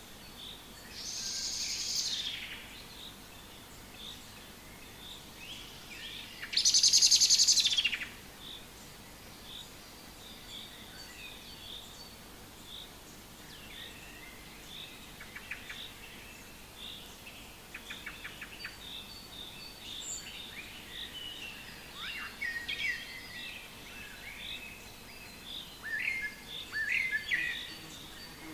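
Several forest songbirds chirping and calling, with many short high notes throughout. A louder, noisy call comes about a second in, and a much louder rattling call follows around seven seconds in. Quick trills are scattered through the second half.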